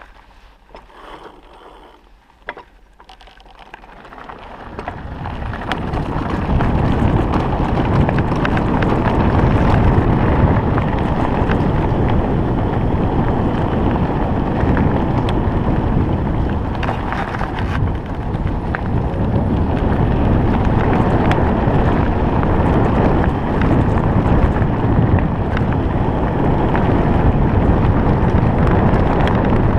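Wind buffeting the microphone and tyre rumble from a Stayer Enduro electric bike riding along a track, building up over the first several seconds as the bike gathers speed, then steady; the electric drive itself adds no engine note.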